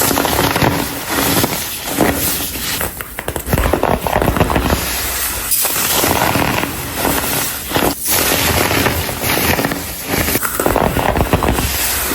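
Dyed baking soda blocks crumbled in the hands, a dense, continuous crunching and crackling with brief breaks about five and eight seconds in.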